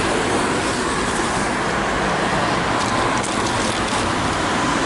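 Steady highway traffic noise: the continuous rush of passing cars.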